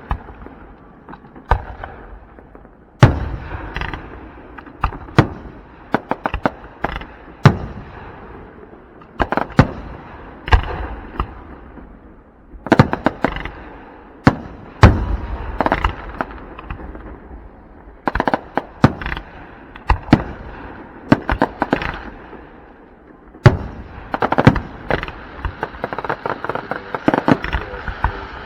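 Aerial fireworks show: shells bursting in quick succession, one to several sharp bangs a second, over a steady crackling hiss.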